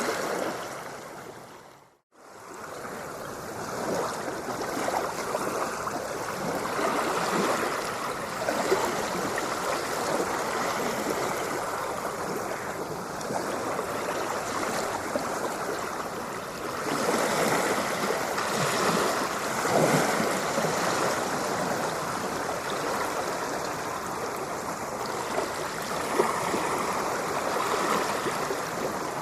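Ocean surf washing continuously, a steady hiss of moving water that swells a little every several seconds. About two seconds in it fades briefly to silence and fades back in, like the seam of a looped recording.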